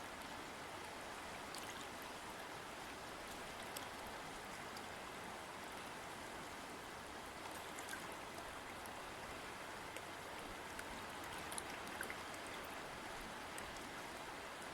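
River water flowing steadily, a constant rush with small scattered splashes and drips.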